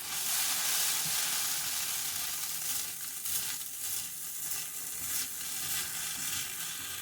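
Food sizzling as it browns in a frying pan on the stove, with occasional scrapes of a spatula stirring it. The sizzle is loudest in the first couple of seconds, then settles a little.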